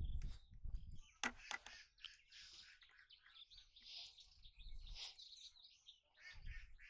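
Small birds chirping repeatedly and quietly, with a low rumble in the first second and again near the end, and a single sharp click a little over a second in.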